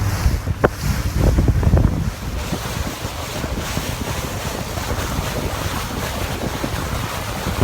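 Wind buffeting the microphone on a moving boat, with water rushing past. Heavy rumbling gusts in the first couple of seconds give way to a steadier hiss.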